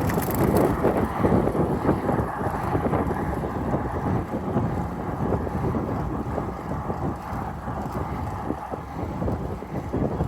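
Wind buffeting the microphone of a camera riding along on a bicycle: a continuous low rush that swells and dips.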